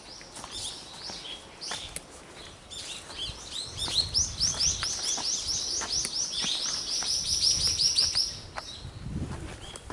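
A songbird sings, with scattered high chirps at first. About four seconds in comes a long, fast trill of repeated high down-slurred notes, about five a second, lasting roughly four seconds.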